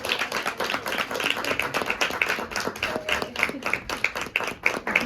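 Audience applauding, with many hands clapping at an uneven rhythm.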